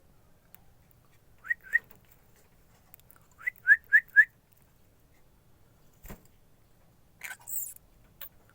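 Short, clear whistled chirps: two, then a quick run of four a couple of seconds later. A click and a brief hissy noise follow near the end.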